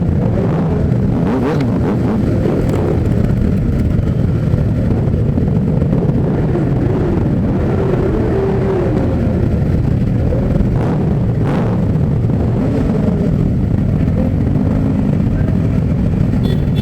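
Many motorcycle engines running together, some revving up and down, in a steady loud rumble with a few short sharp blips.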